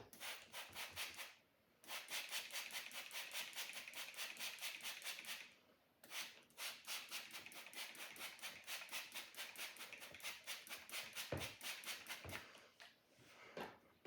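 A sword blade being sharpened: quick back-and-forth scraping strokes, about five a second, in three runs with two short pauses.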